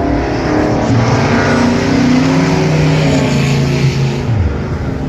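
A motor vehicle's engine running loudly at a steady pitch that shifts up and down a little, then drops away about four and a half seconds in.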